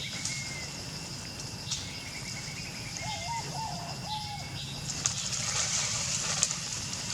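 Faint, high, repeated chirping calls over a steady outdoor hiss, with a short wavering call from about three to four seconds in.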